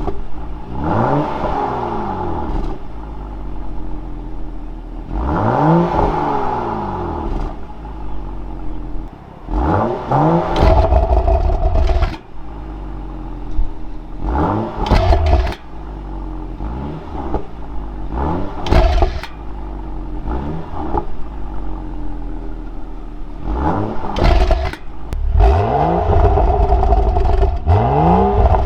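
BMW 435i's turbocharged inline-six through the factory M Performance exhaust, revved over and over. The pitch climbs and drops back roughly every four to five seconds, with sharp pops and crackles as the revs fall.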